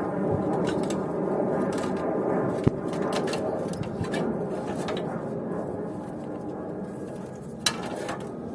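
A steady mechanical drone with many overtones that slowly fades, like an engine or aircraft passing at a distance, with a few sharp clicks or knocks, one about two and a half seconds in and another near the end.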